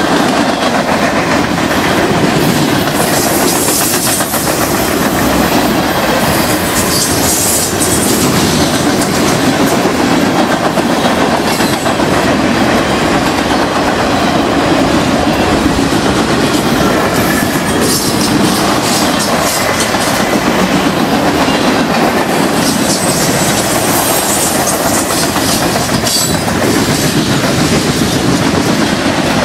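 Loud freight train of boxcars, tank cars and covered hoppers rolling past close by: a steady rumble of steel wheels on the rails with repeated clicks and clacks from the wheels.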